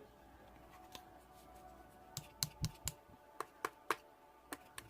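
Irregular sharp clicks and taps, like keys being pressed, a few at first and then a quick cluster of about a dozen in the second half, over a faint steady hum.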